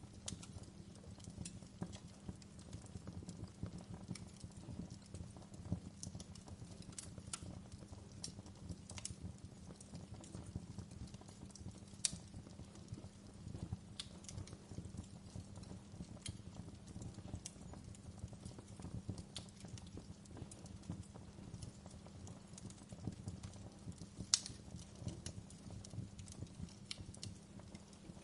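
Wood fire crackling in a fireplace: irregular sharp pops and snaps over a steady low rumble, with two louder pops, about 12 seconds in and about 24 seconds in.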